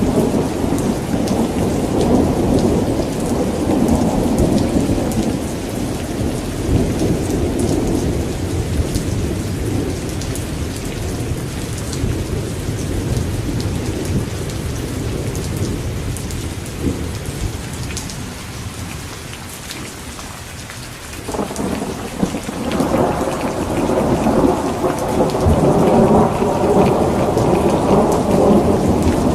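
Steady rain falling with scattered drop ticks, under rolling thunder. A long low rumble slowly fades, then a new thunderclap breaks in suddenly about 21 seconds in and rumbles on.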